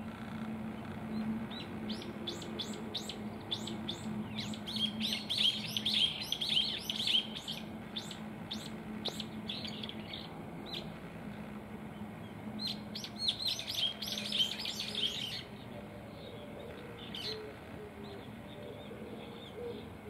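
Birds chirping in the trees: many short, high chirps in quick runs, busiest from about two to eleven seconds in and again around thirteen to fifteen seconds, then only a few. A faint steady low hum lies beneath.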